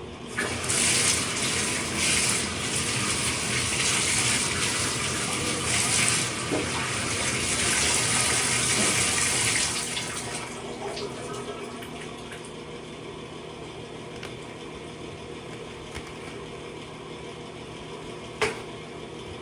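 Water running from a tap into a sink for about ten seconds, then shut off. A single sharp click near the end.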